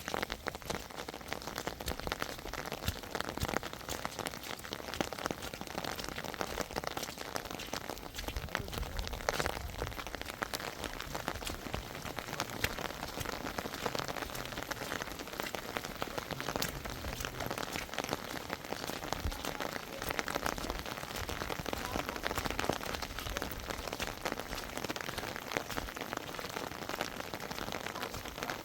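Steady rain falling, a dense patter of countless small drops with no let-up.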